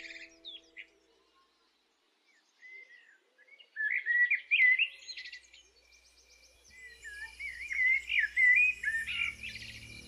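A songbird singing in quick warbling phrases, with a few short chirps at first, then a pause of about two seconds, then two bursts of song, the second longer.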